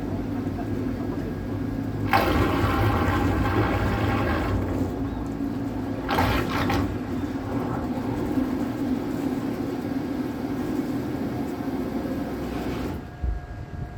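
Water rushing and splashing, with two louder surges, over a steady low hum, as the boat moves through the water.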